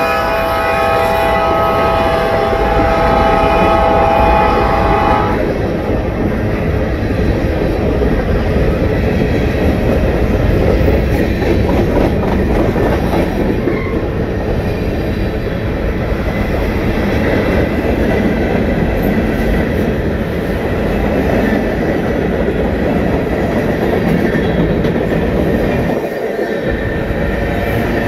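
Freight train horn sounding a steady chord that cuts off about five seconds in, while the train's freight cars roll past close by with continuous steel-wheel noise on the rails.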